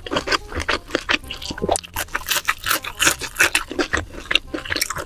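Close-miked wet chewing of a mouthful of cheese-baked lobster, a rapid, irregular run of soft mouth clicks and squelches.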